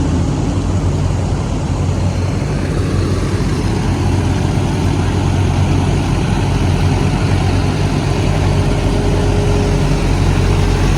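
Heavy road-construction machine engine running steadily, a low, even hum.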